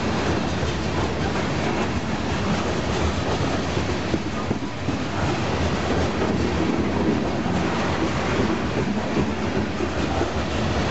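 Covered hopper cars of a long freight train rolling past close by: the steady noise of steel wheels running on the rails.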